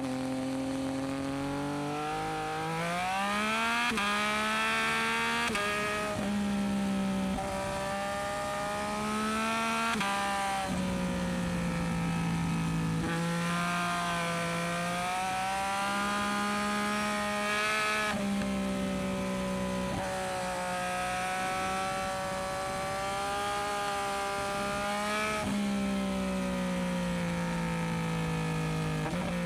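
Yamaha MT-09SP's inline three-cylinder engine through a Dominator aftermarket exhaust, ridden under load: the exhaust note climbs and falls repeatedly, with several sudden drops in pitch.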